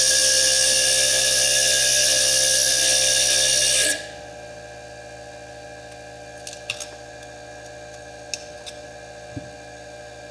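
Foredom bench lathe with a small slitting disc cutting into fire agate: a loud, high grinding hiss over a steady motor whine that cuts off suddenly about four seconds in. A low steady hum follows, with a few light clicks.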